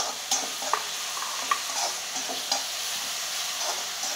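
Ground green chillies and garlic sizzling in hot oil in a kadhai, stirred with a spatula that scrapes and taps against the pan several times.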